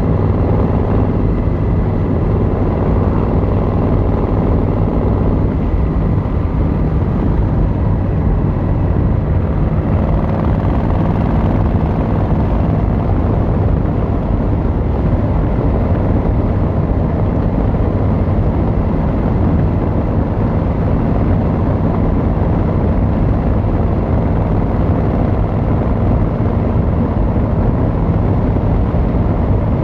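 Yamaha XVZ1300 Royal Star's V4 engine and exhaust running at a steady cruise, the note holding even with no clear revving up or down.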